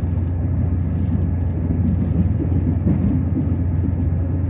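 Train in motion: a steady low hum and rumble.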